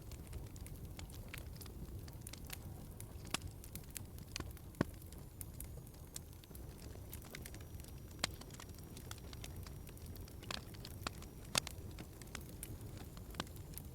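Wood fire in a fireplace, crackling and popping irregularly over a low, steady rumble of the flames, with a few sharper pops about five seconds in and again near eleven and twelve seconds.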